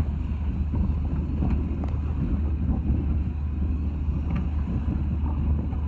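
Fishing boat's engine running with a steady low rumble, mixed with wind buffeting the microphone.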